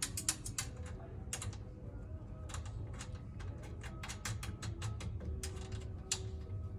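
A screw being driven in to fix the gas-lift strut to the bed frame: a run of irregular sharp clicks and ticks from the tool and screw.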